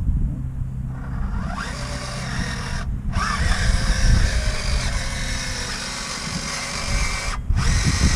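Electric drive motors and gearboxes of an RC4WD radio-controlled bulldozer whining as it drives, over a low rumble. The whine rises and falls in pitch and stops briefly twice.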